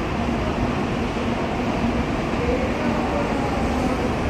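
Steady noise of a Shinkansen bullet train, with a faint low hum that comes and goes.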